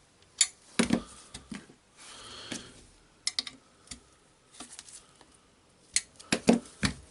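Irregular clicks and knocks of hand work on a DeWalt DCS331 cordless jigsaw's shoe, as its bevel-angle lock is adjusted and tested to see whether the shoe still moves. There is a cluster of sharp clicks about a second in and another near the end.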